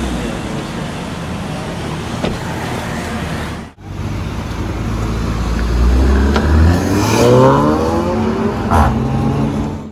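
Car engine running, then accelerating with its pitch rising in the second half; there is a sudden break about a third of the way in.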